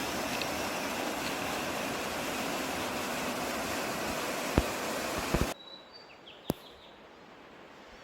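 Mountain ambience: a loud, steady rushing noise of wind or water that cuts off abruptly about five and a half seconds in, leaving a much quieter hiss with a few short, high bird chirps. A few sharp clicks come just before the cut and once after it.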